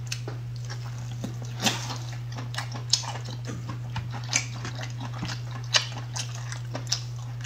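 Close-up wet chewing and lip-smacking on chewy braised pork intestine, with irregular sharp mouth clicks about twice a second over a steady low hum.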